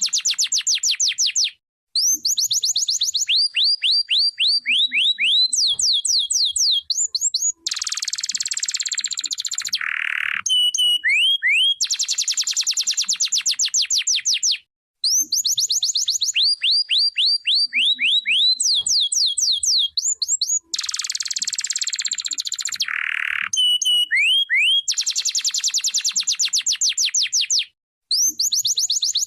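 Domestic canary singing: fast trills of quick repeated high sweeps, changing from one trill to the next, with a harsher buzzy passage midway. The same song sequence plays twice, split by brief breaks.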